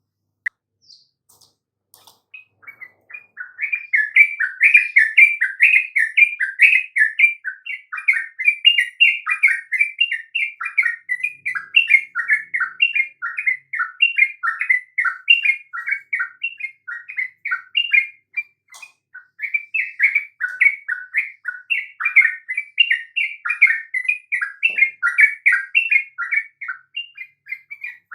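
Yellow-vented bulbul (trucukan) singing a fast, continuous run of bubbly chattering notes. The song starts a couple of seconds in and breaks briefly about two-thirds of the way through.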